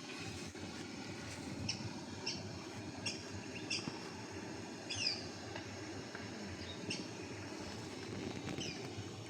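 A bird giving repeated short, high chirps, each falling in pitch, spaced irregularly a second or so apart, over a steady low outdoor background rumble.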